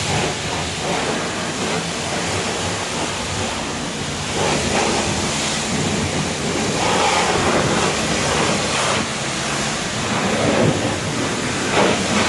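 Steady hissing noise of car-wash work with a low machine hum underneath, swelling a little a few seconds in and again near the end.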